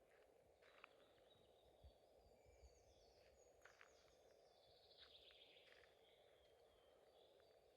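Faint birdsong: small birds chirping, with a few quick falling trills around the middle, over a steady low hiss.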